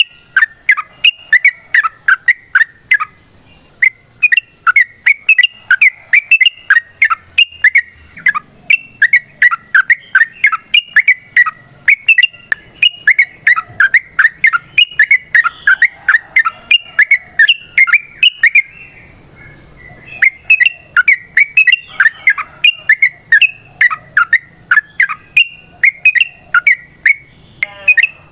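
Yellow-vented bulbul (trucuk) calling in long, rapid chattering runs of short, bubbly notes, about three to four a second, with a short break about two-thirds of the way through.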